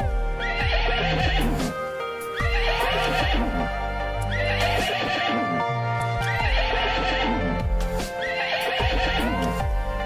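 A horse whinnying five times, the calls evenly spaced about two seconds apart, over gentle background music.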